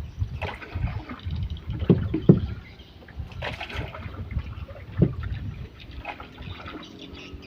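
Water splashing and lapping against a small boat, with hollow knocks on the hull: two close together about two seconds in and a louder single one about five seconds in.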